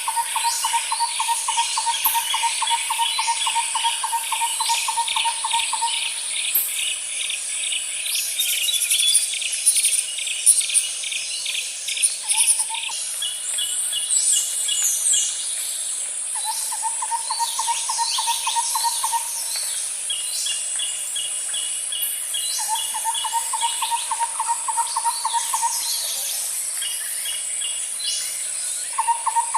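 Outdoor nature ambience of insects and birds: a steady high insect drone with rapid pulsed insect calls and scattered bird chirps. A lower, even, rapid trill comes and goes in bouts of a few seconds, about four times.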